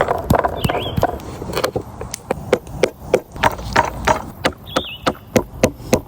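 A series of sharp knocks, irregular, about two or three a second, over a low rumble. A bird gives a short whistled call twice.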